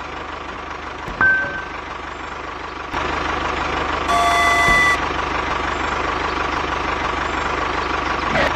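Mini tractor running steadily, getting a little louder about three seconds in. A short beep comes just after one second, and a longer horn-like beep runs from about four to five seconds.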